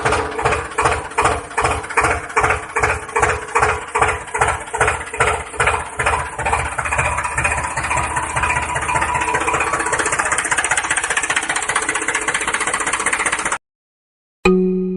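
A small engine chugging at about three beats a second, the beats quickening and blending into a steady run after about eight seconds, then cutting off abruptly near the end.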